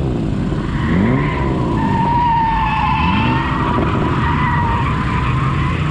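Drift car engine revving in rising sweeps while its tyres squeal in a long, wavering screech through a slide.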